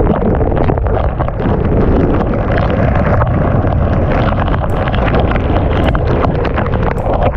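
Heavy rain pouring, with wind buffeting the microphone in a steady low rumble and many sharp ticks of drops striking close by.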